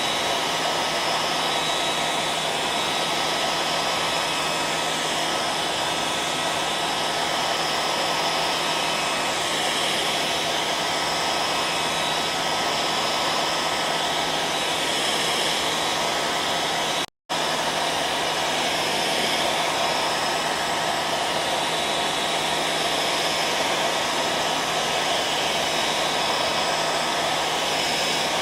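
Hair dryer running steadily: a constant rush of blown air with a steady motor hum through it. The sound cuts out completely for a split second about two-thirds of the way through, then carries on unchanged.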